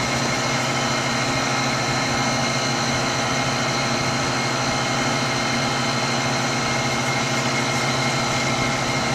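Walk-in freezer's refrigeration condensing unit (compressor and condenser fan) running steadily, a constant hum with a thin high whine, as the system pulls the box temperature down.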